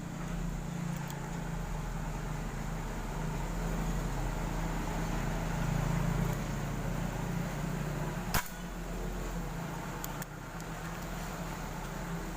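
A single sharp air rifle shot about eight seconds in, over a steady low hum.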